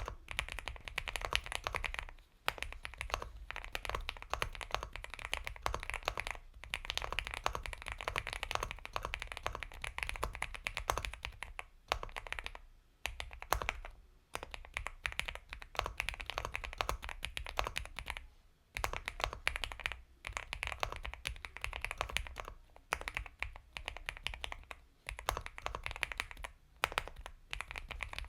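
Continuous typing on the Epomaker x Feker Galaxy 80 mechanical keyboard with Gateron Milky Yellow Pro linear switches: rapid soft keystrokes in runs, broken by short pauses every few seconds.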